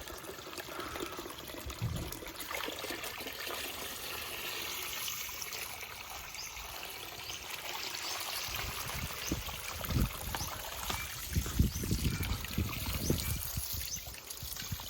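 Steady trickle of pouring water, with a few low knocks about two-thirds of the way through.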